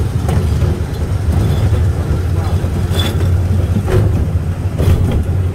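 Miniature park train running along its track, heard from an open passenger coach: a steady low rumble with a few sharp clacks from the wheels and rails.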